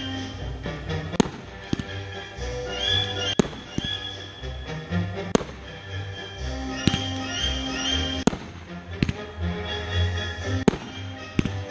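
Fireworks going off in a display, with sharp bangs every second or two, over music with a steady low beat.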